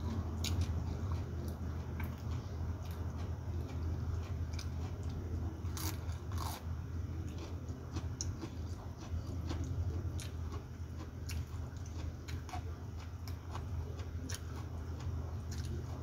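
Close-up eating sounds: a person biting and chewing raw lettuce leaves with rice, crunching wetly with many small clicks and smacks. A steady low hum runs underneath.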